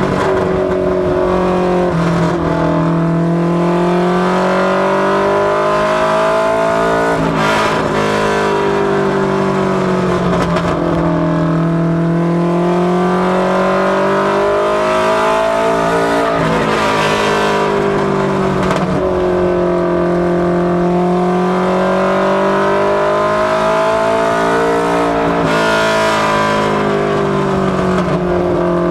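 Four-cylinder engine of a Mustang LX notchback mini stock race car running hard on practice laps. Its pitch climbs steadily under acceleration, then drops sharply as the throttle is lifted, about every nine seconds, three times.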